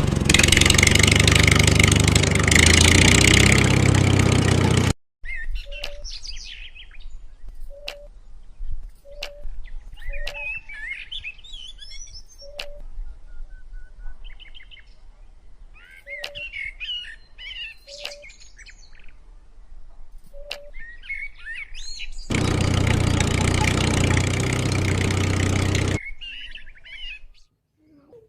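Small birds chirping in short, quick calls, with regular sharp ticks about once a second. A loud, steady rushing noise fills the first few seconds and returns for a few seconds near the end.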